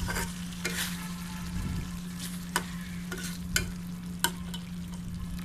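Spiced egg curry (egg kosha) sizzling in a pan as a spatula stirs it, with the spatula clicking sharply against the pan three times. A steady low hum runs underneath.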